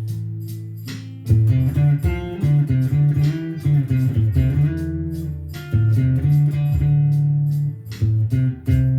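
Blues played on guitar: plucked notes over a low bass line, a single note dying away at first, then busier picking from about a second in.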